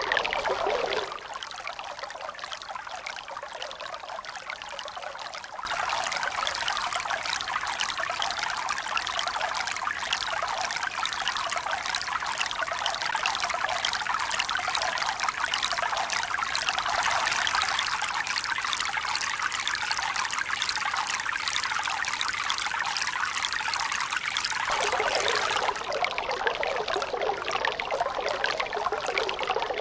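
Running, pouring water: a dense, even splashing hiss. Its character changes suddenly three times: it thins about a second in, grows fuller and brighter near six seconds, and shifts again near twenty-five seconds.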